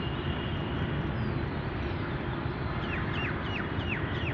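A bird calling near the end: a quick run of about five short notes, each sliding sharply downward. Under it a steady outdoor rumble.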